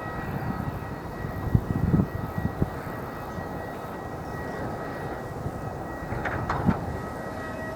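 Airbus A319 jet engines running steadily with a faint whine, under a low rumble of noise. A few low thumps come about two seconds in, and a few sharp clicks come near the end.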